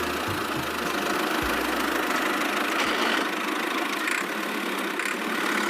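A small vehicle's motor running steadily, an engine-like noise with a deep low rumble that drops away about three seconds in.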